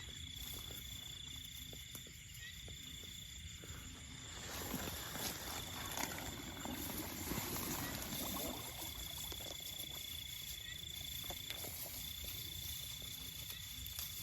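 Steady high-pitched insect trill, breaking off and resuming every few seconds, with a few seconds of rustling and splashing noise in the middle.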